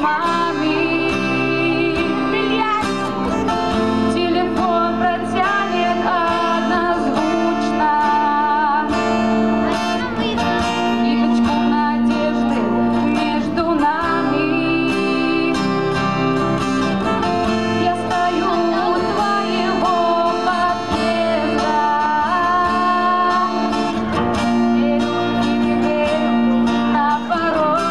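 A woman singing a song to her own acoustic guitar accompaniment, strummed chords under a wavering sung melody.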